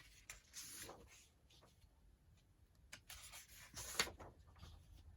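Faint rustling of sheets of printed copy paper being handled and turned over, with a slightly louder rustle about four seconds in.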